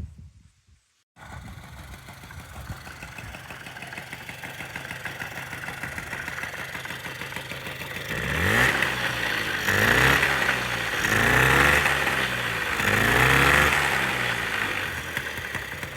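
1999 Kinetic TFR moped's small two-stroke engine running at idle, then revved up and back down four times in quick succession from about eight seconds in.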